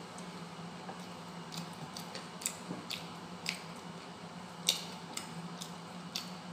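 A person chewing a mouthful of fried fish, with sharp wet smacking clicks of the lips and mouth about once a second, the loudest a little under five seconds in.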